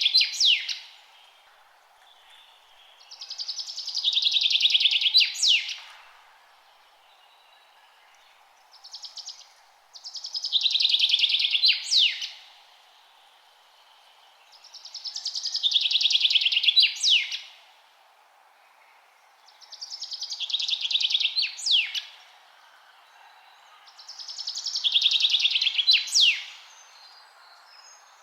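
A songbird singing one song over and over, about every five seconds: a fast trill that swells for about two seconds and ends in a few sharp sweeping notes, over a faint steady background hiss.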